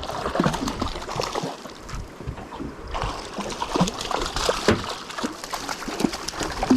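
Irregular splashing and sloshing of water at the side of a small boat as a hooked barracuda is brought to the surface, with many short splashes and knocks throughout.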